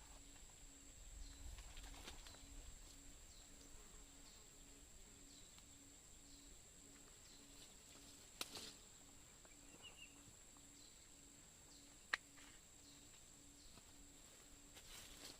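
Near silence: faint outdoor ambience with faint bird calls and a steady low pulsing about twice a second. Two sharp clicks come about eight and twelve seconds in, the second one louder.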